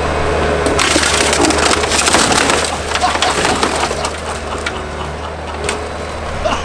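Junk car body crunching and crackling as a Bobcat machine crushes it, densest for a couple of seconds about a second in, then scattered cracks. An engine runs steadily underneath.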